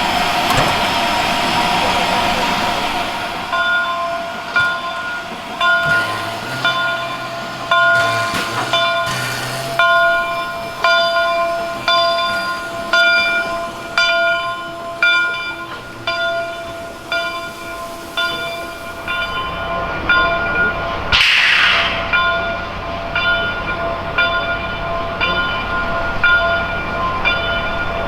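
Steam locomotive's bell ringing steadily, about one stroke a second, after a few seconds of steam hissing at the start. Partway through, a short loud blast of steam cuts across the ringing.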